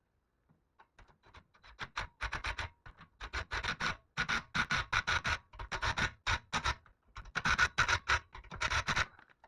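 Rapid, irregular scraping strokes in bursts of a second or two, with short pauses between them, starting about a second in.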